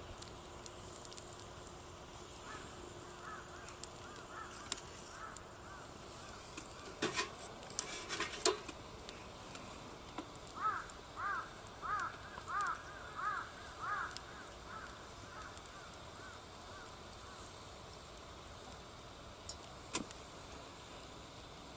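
A crow cawing in a run of about ten evenly spaced calls midway through, with fainter caws before them, over a few sharp clicks and knocks.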